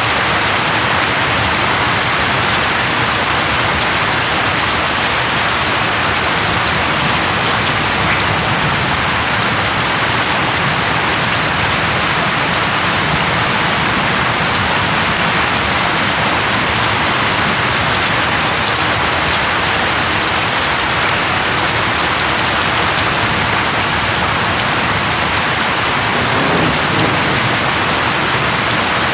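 Steady, heavy rain falling on a surface, an even hiss with no breaks. Near the end a low rumble of thunder begins to rise under it.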